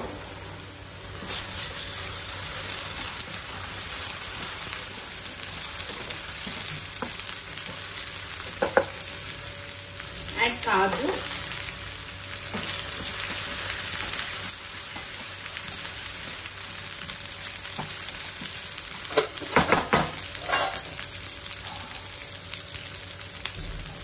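Onions, green chilies and ginger-garlic paste sizzling steadily in hot oil in a pan while being stirred, with a few knocks and scrapes from the stirring, clustered about a third of the way in and again past the three-quarter mark.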